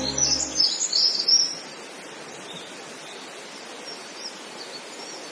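Small birds chirping for the first second and a half, then a steady outdoor hiss with a few faint chirps.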